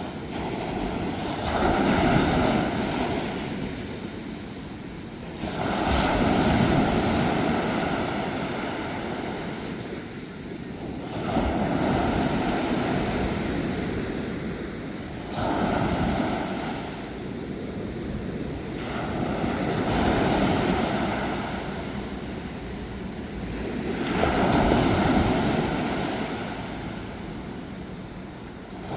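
Ocean waves washing onto the shore, each wave rising to a rush and fading away, about every four to five seconds.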